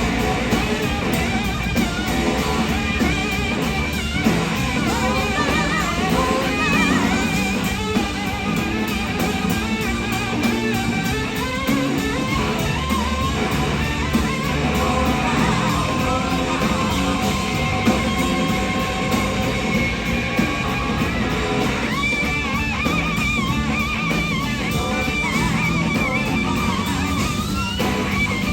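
Live rock band playing, with an electric slide guitar soloing in wavering, gliding notes over drums and bass; the guitar part grows denser about three-quarters of the way through.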